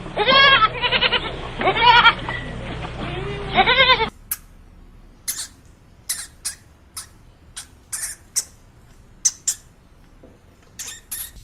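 A farm animal bleating, several wavering calls in quick succession. About four seconds in it cuts to a much quieter stretch with about a dozen short, sharp, high-pitched ticks spread irregularly.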